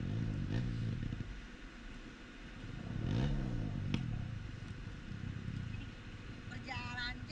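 Motorcycle engine running, its pitch rising and falling twice as the throttle opens and closes or as it passes.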